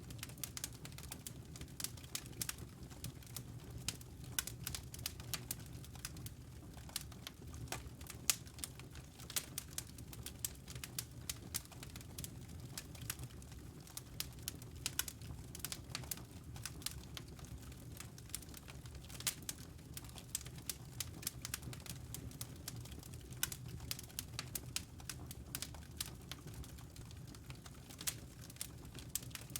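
Wood fire crackling in a fireplace: dense, irregular sharp pops and snaps over a low, steady rumble of the burning fire.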